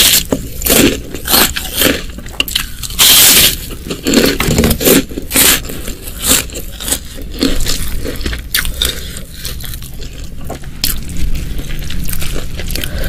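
Close-miked eating: a person biting and chewing food, with loud crunches about three seconds in and many small wet clicks of chewing throughout.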